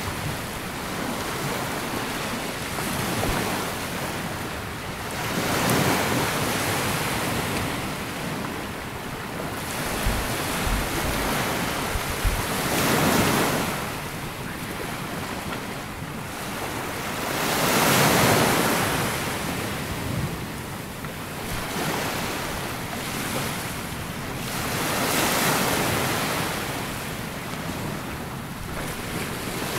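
Sea waves breaking and washing up a sandy beach, the surf swelling and falling back about every five to seven seconds.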